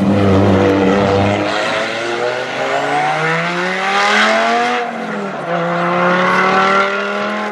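Classic rally car's engine pulling hard out of a hairpin. The revs climb steadily for a few seconds, drop sharply at a gear change, then rise again.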